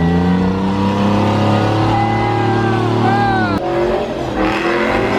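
Car engine revved up and held at high revs, its pitch climbing slightly and then dropping away abruptly about three and a half seconds in, with crowd voices around it.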